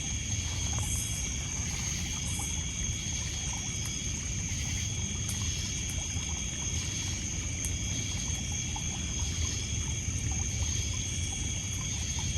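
Small waves lapping and trickling on a pebble shore, with crickets and other insects trilling in steady high tones over it and a faint campfire crackle now and then.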